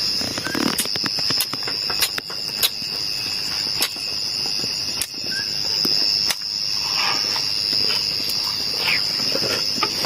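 A steady high-pitched chorus of insects, with scattered sharp clicks and light rustling over it.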